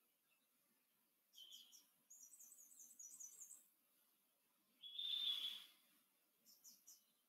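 Faint small birds chirping: short high chirps in threes and a quick chattering run, with one louder, harsher call about five seconds in.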